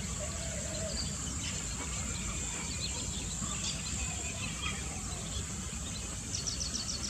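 Wild ambience of a steady high insect drone with scattered small bird chirps over a low rumble, and a quick run of about eight high ticks near the end.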